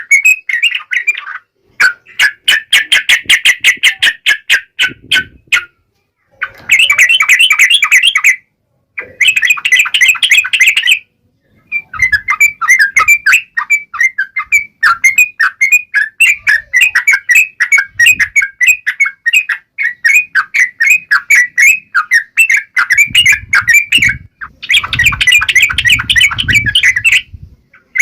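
Yellow-vented bulbul (trucukan) singing: fast, chattering runs of notes in bursts of one to three seconds, with short breaks between phrases.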